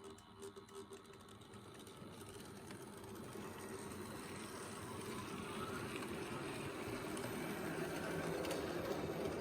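H0-scale model train running on the track, its motor and wheels whirring and growing steadily louder as it approaches.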